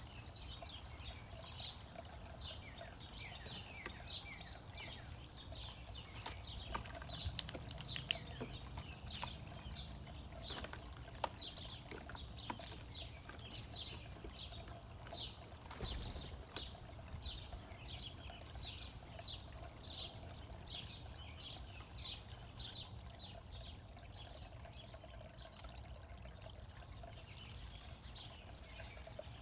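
A songbird repeating a short, high, downward-slurred note about two to three times a second, over and over, growing fainter near the end.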